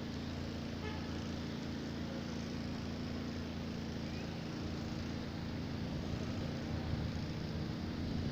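A steady low motor-like hum under an even hiss, unchanging throughout.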